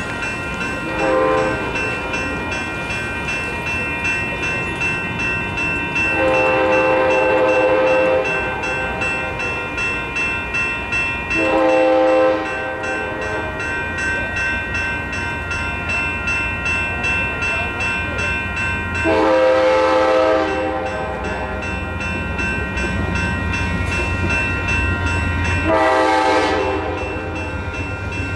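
GE P42DC diesel locomotive horn sounding five blasts, two of them long, over the steady rapid ringing of the crossing's electronic bells. The low rumble of the approaching train builds toward the end.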